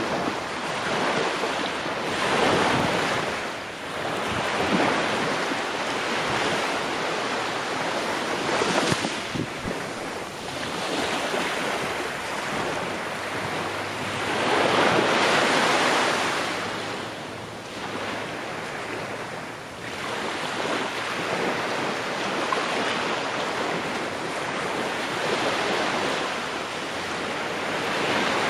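Ocean waves breaking and washing on the shore in steady surf, each wave swelling up and fading away every few seconds, the biggest about fifteen seconds in.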